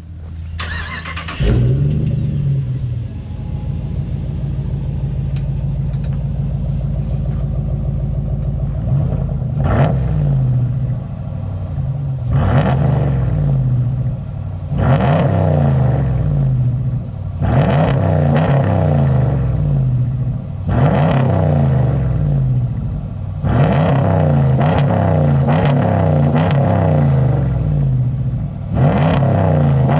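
2019 Ram 1500's V8 with a Flowmaster Outlaw exhaust and resonator delete, warm-started: it catches about a second and a half in, settles to a steady idle, then is revved in about seven separate blips, each rising and falling back to idle.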